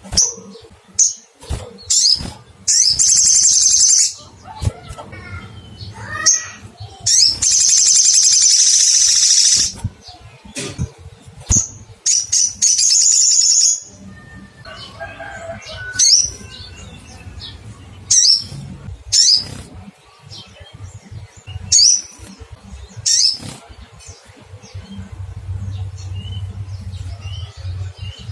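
Olive-backed sunbird calling: sharp, high 'cuit' chip notes repeated at irregular intervals, with three long rapid trills of one to two and a half seconds each in the first half.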